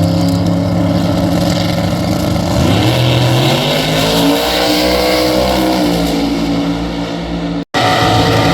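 Loud drag racing car engine running with a deep, steady note, revving up about two and a half seconds in and swelling, then settling back down near six seconds. The sound cuts out for an instant near the end.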